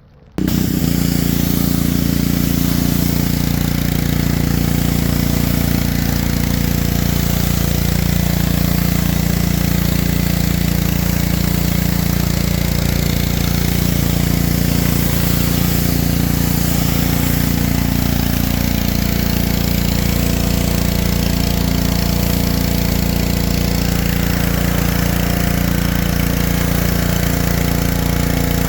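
An engine running steadily at a constant speed, cutting in abruptly just after the start, with a slight drop in pitch about two-thirds of the way through.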